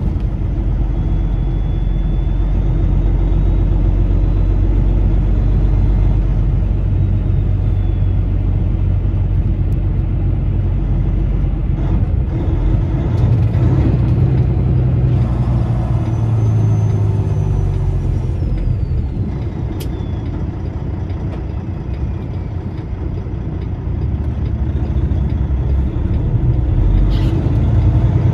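Peterbilt semi truck's diesel engine running while driving, heard from inside the cab: a steady low rumble whose engine note rises about halfway through and again near the end.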